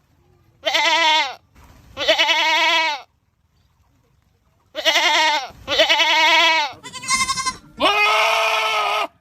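Goat screaming: six loud, wavering bleats in quick succession, with a pause of about a second and a half after the second. The last bleat is lower and steadier than the others.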